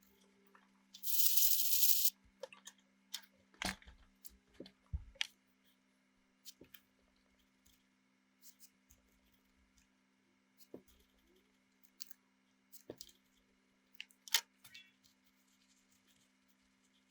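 A hiss of aerosol spray lasting about a second, starting about a second in, then scattered clicks and taps of small parts and tools being handled.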